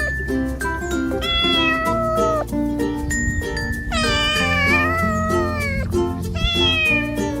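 A cat meowing three times over background music with a steady beat: once about a second in, a long meow falling in pitch about four seconds in, and once near the end.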